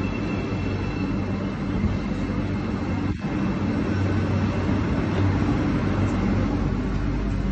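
Marmaray commuter train running through its tunnel, a steady rumble with a low hum.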